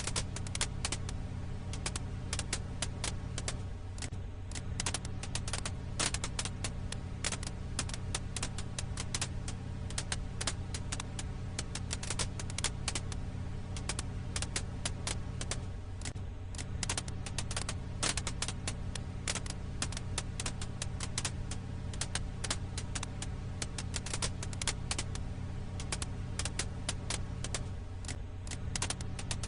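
Firewood fire crackling: a dense, irregular stream of sharp pops and snaps over a steady low hum.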